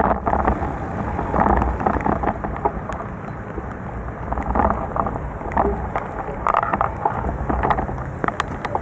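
Heavy rain during a bicycle ride: a steady rush of rain and wet-road spray with a low rumble of wind on the microphone, and many short sharp ticks of raindrops.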